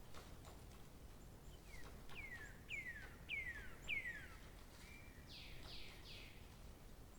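A bird singing a run of about five downward-sliding notes, evenly spaced, then three short, harsher notes. Faint clicks sound in the background.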